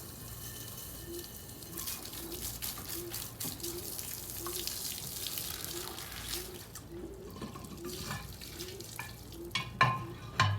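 Water running and splashing across the floor of a pigeon yard as it is washed down, a steady rushing wash. A few sharp knocks come near the end.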